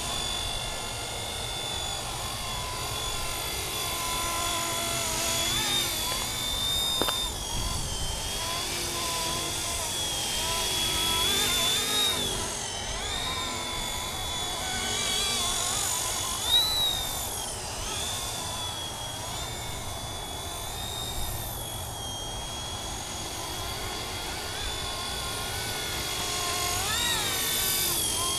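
Radio-controlled MD 500 scale model helicopter in flight: a continuous high motor-and-rotor whine that dips and rises in pitch several times, over a low rotor rumble.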